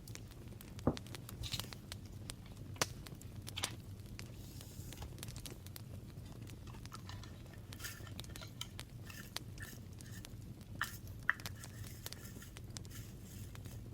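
Paper and small crafting materials handled on a desk: scattered light taps and clicks, with soft rustling and scratching in the middle, over a low steady hum.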